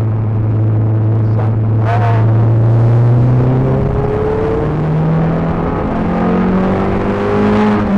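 Peugeot 306 GTi-6's 2.0-litre four-cylinder engine under load on track, heard from inside the car: it holds a steady note, breaks for a gear change about four seconds in, then climbs in pitch again. A brief high squeal about two seconds in.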